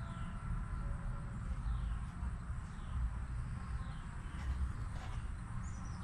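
Outdoor ambience: a bird repeating a short, high, falling call about once a second over a steady low rumble.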